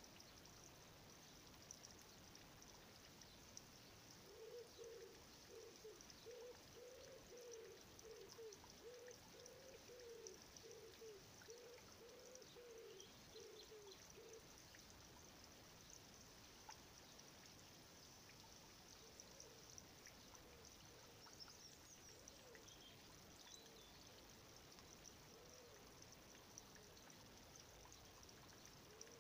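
Near silence: faint steady outdoor hiss, with a bird faintly repeating a short hooting call about one and a half times a second for about ten seconds, starting a few seconds in, then a few scattered calls later.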